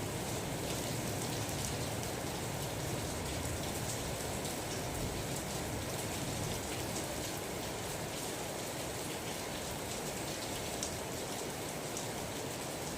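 Steady rain falling, with scattered drops ticking sharply on a surface. A low rumble of thunder dies away in the first few seconds.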